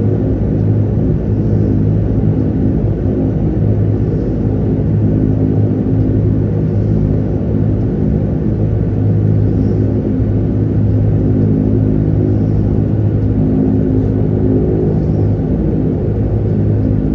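Dash 8-300's turboprop engines and propellers running with a steady, loud, low droning hum.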